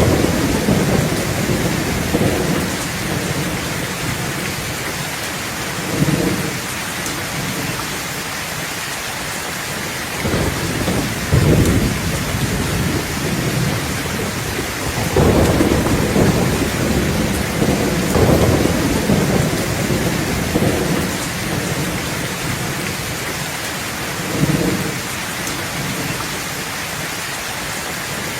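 Steady rain with low rumbles that swell and fade every few seconds, strongest about halfway through.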